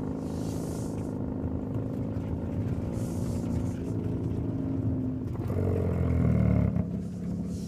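Hyundai Elantra N's turbocharged 2.0-litre four-cylinder engine and exhaust while driving, running steadily, then revving up about six seconds in before the revs drop suddenly near the end.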